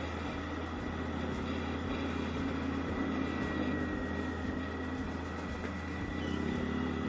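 Yamaha Aerox scooter running steadily on the move, its engine hum mixed with rumbling wind and road noise on the microphone.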